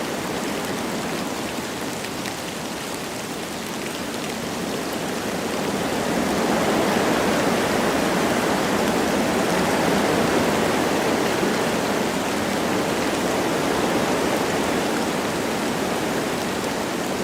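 Wind blowing through forest trees with light rain falling, a steady rushing hiss that swells in a gust about six seconds in and eases off again near the end.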